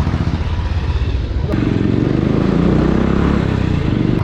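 Motorcycle engine running, its revs rising about one and a half seconds in as it accelerates.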